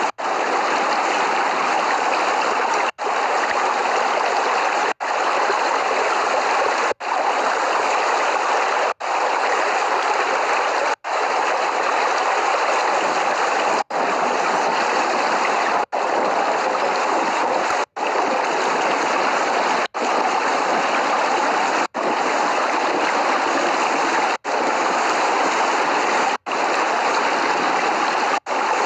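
Steady, loud rushing water, cut by a very brief dropout about every two seconds; no thunder.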